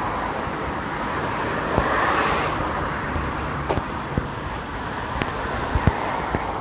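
Road traffic on a busy main road, a steady rush of vehicles, with one passing vehicle swelling loudest about two seconds in.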